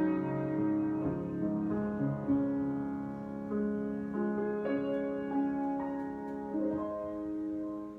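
Improvised keyboard music: slow, held notes and chords, a new note entering every half second to a second and ringing on under the next.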